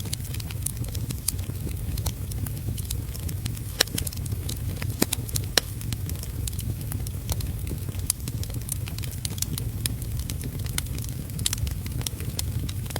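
Wood fire crackling in a fireplace, with irregular sharp pops every fraction of a second to a second, over a steady low rumble and the hiss of heavy rain.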